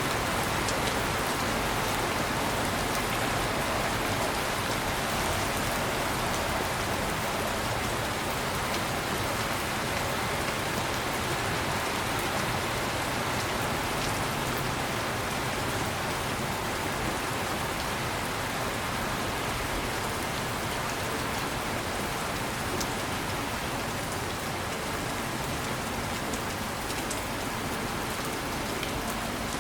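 Steady heavy rain falling, an even hiss with scattered drop ticks and no distinct thunderclap.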